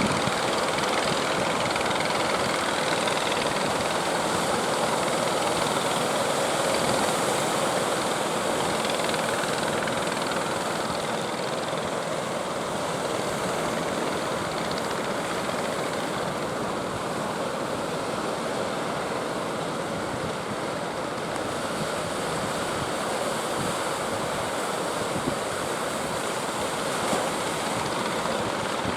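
Steady rushing noise of sea surf breaking, with strong wind.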